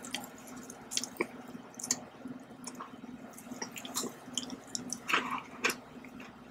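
Close-miked chewing and crunching of small bear-shaped chocolate biscuits, with scattered sharp crunches and wet mouth clicks, over a faint steady hum.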